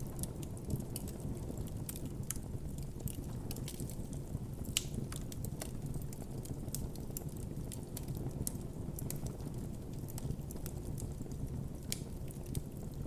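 Campfire crackling and popping: a steady low rumble of burning wood with many irregular sharp snaps.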